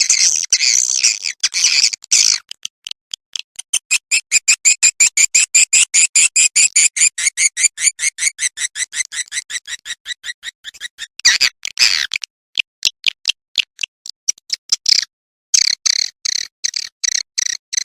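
Swiftlet lure call, the 'suara inap' roosting and mating chatter played to draw swiftlets into a swiftlet house. It is high-pitched, with twittering chatter at the start, then long runs of clicky chirps at about four a second, a brief pause, and dense twittering again near the end.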